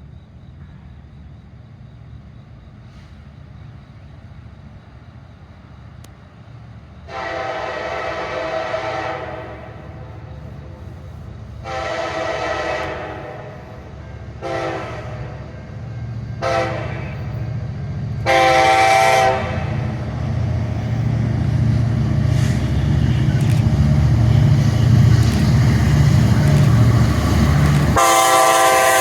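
Freight locomotive's five-chime Nathan K5LA air horn sounding for a grade crossing as the train approaches: two long blasts, two short ones and a long one, then a louder blast near the end. Under it, the rumble of the lead pair of EMD SD70MAC diesel locomotives grows steadily louder as they close in.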